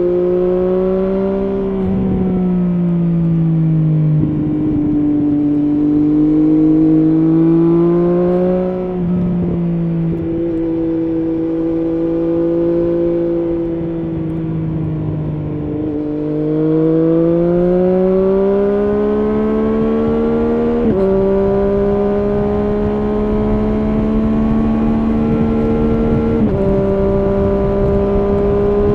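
Triumph Street Triple S three-cylinder engine through an SC Project SC1-R slip-on exhaust with its dB killer fitted, heard while riding. The engine note rises and falls as the rider accelerates and eases off, dropping in pitch at gear changes. Its pitch jumps suddenly upward twice in the later part.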